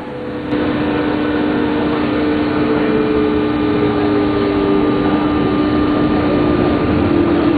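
Osaka Loop Line electric commuter train running, heard from inside the carriage: a steady rumble of wheels on rail with a motor hum. The hum holds two tones that come in about half a second in, the higher one sliding slightly lower over the next few seconds.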